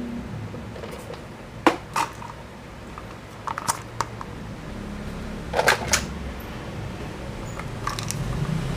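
Hard plastic toy vehicles being handled, giving a handful of scattered clicks and knocks over a low background rumble.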